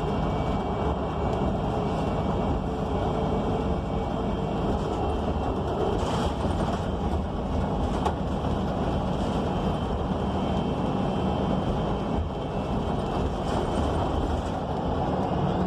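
Cabin ride noise of a 2019 ENC Axess transit bus under way: its Cummins Westport L9N natural-gas engine and Voith automatic transmission running under a steady rumble of road and body noise, with a brief knock about eight seconds in.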